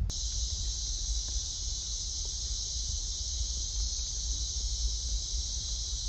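Night-time insect chorus in the forest: a steady, high-pitched buzz that starts abruptly just after the beginning and holds unbroken, over a low rumble.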